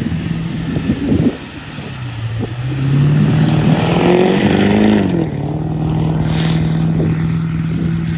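Pickup truck engine running under way: its pitch drops about a second in, climbs steadily for a few seconds as the truck accelerates, drops again and then holds steady, like upshifts through the gears.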